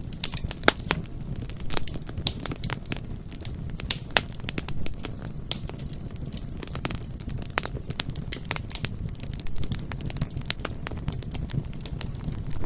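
Bonfire crackling: irregular sharp pops and snaps of burning wood over a steady low rumble of flames.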